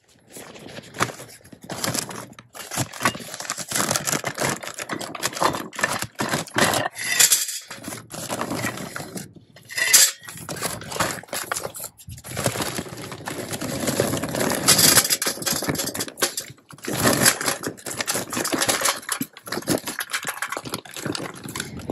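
Irregular clinking, clattering and scraping of hard pieces as a Big Green Egg kamado smoker is readied for cooking.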